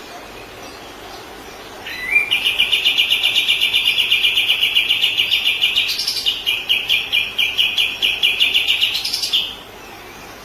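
Kapas tembak singing a rapid, even trill of repeated notes, several a second, opened by a short rising note about two seconds in. It breaks briefly near the middle and stops about a second before the end.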